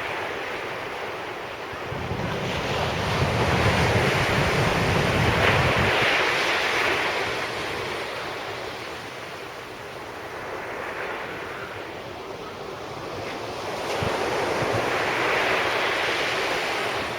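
Sea waves breaking on a beach, the surf swelling and fading in two big surges, with wind buffeting the microphone during the first.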